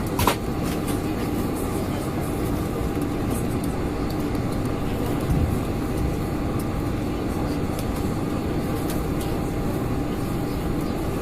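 Steady hum of a Boeing 747-400's passenger cabin, with a couple of sharp clicks right at the start and faint background voices.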